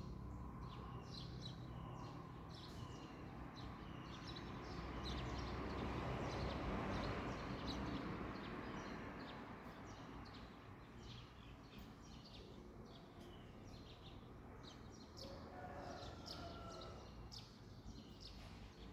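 Small birds chirping over and over, short high calls scattered throughout, over a faint background rush that swells for a few seconds in the middle and then fades.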